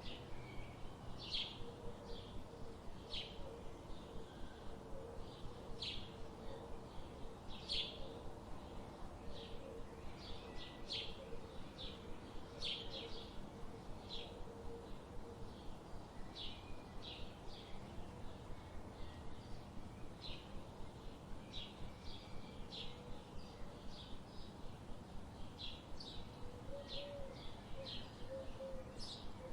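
Forest ambience: birds chirping, short high chirps following one another every second or so, over a steady background hiss, with a fainter, lower wavering bird call underneath.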